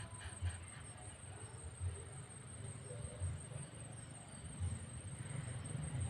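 A steady, high-pitched insect drone, like a cricket, running continuously, with soft low thumps every second or so.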